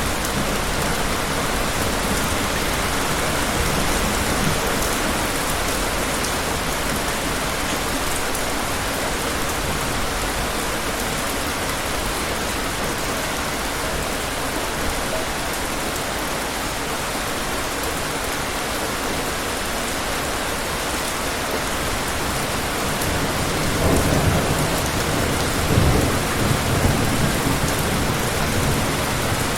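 Steady heavy rain falling, with low thunder rumbling near the end.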